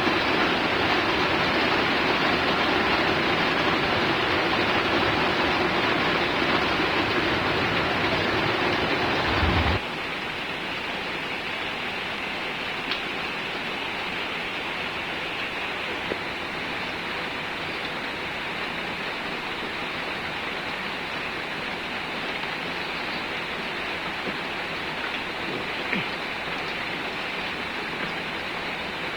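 Steady rain hiss. For about the first ten seconds it is louder with a low rumble underneath, then it cuts suddenly to a quieter, even rain sound with a few faint drip clicks.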